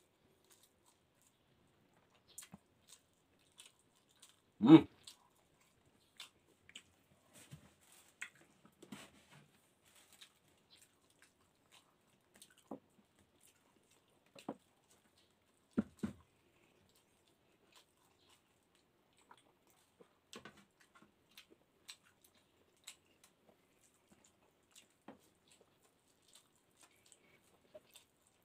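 Close-up mouth sounds of a man eating grouper head and rice by hand: chewing, lip smacks and small wet clicks at irregular intervals, with one louder mouth sound about five seconds in.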